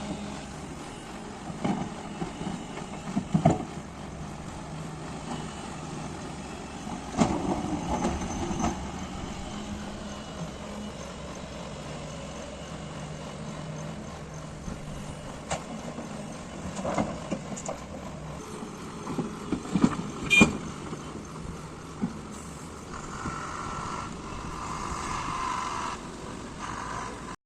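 Diesel engine of an excavator running steadily while it loads a dumper, with scattered sharp clanks and knocks of the bucket and rock, the loudest about twenty seconds in. A higher whine rises near the end.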